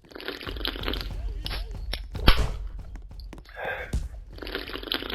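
Someone chewing and crunching food, with rustling and clicks and a sharp knock about two seconds in.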